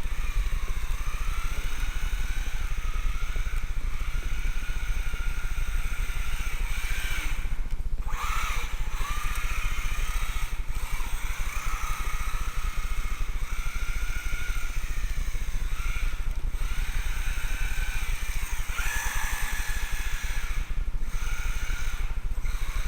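Electric motor and drivetrain whine of a 1/16 four-wheel-drive RC rally car, rising and falling in pitch as the throttle is worked, cutting out briefly several times as it lets off.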